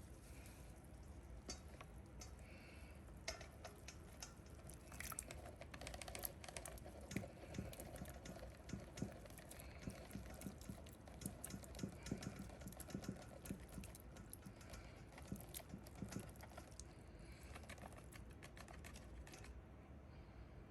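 Faint, scattered small clicks and taps of hands and utensils working in a kitchen, irregular throughout, over a low steady background hum.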